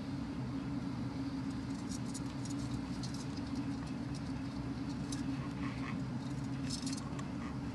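Budgerigar chicks making faint, scattered high cheeps and scratchy clicks over a steady low hum.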